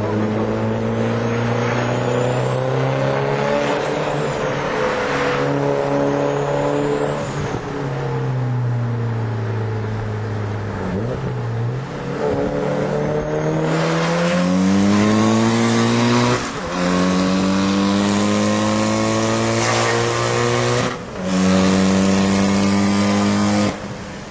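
Turbocharged Nissan Primera's engine pulling hard, heard from inside its cabin: the revs hold, fall back and climb again through several gear changes, with brief breaks in the sound about 16 and 21 seconds in.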